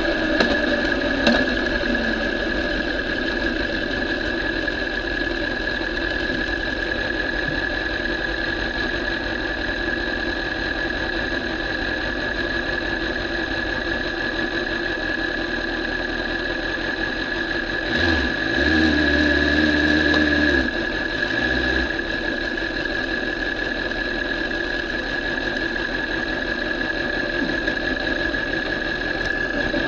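BMW S1000RR inline-four motorcycle engine running steadily at low revs, with a constant high whine over it. About two-thirds of the way in, a louder low rumble swells for about three seconds, then settles back.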